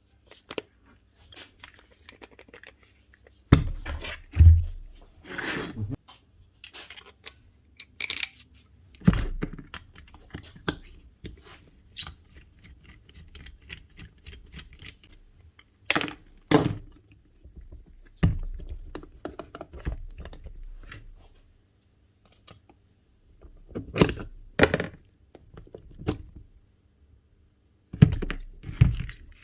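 Hand work on a Makita GA9040 angle grinder and its parts: scattered clicks, scrapes and a dozen or so sharp knocks as parts and tools are handled and set down. There is no motor running.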